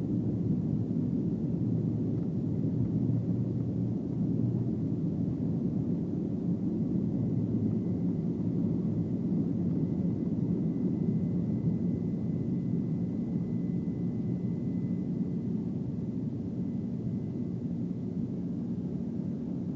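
Airbus A330-300 jet engines and airflow heard from inside the cabin during takeoff: a steady low rumble, with a faint thin high tone joining about seven seconds in.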